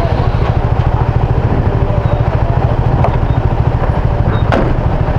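Motorcycle engine idling with an even, rapid low putter, with two short sharp clicks in the second half.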